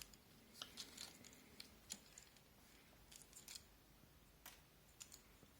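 Faint, irregular small clicks and taps of hands handling a computer case fan during installation.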